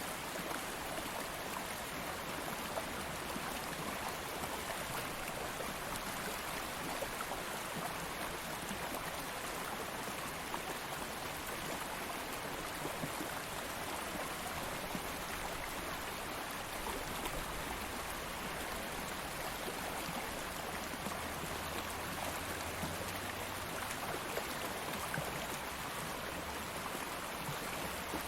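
Small stream of water flowing steadily over rocks, an even rushing burble.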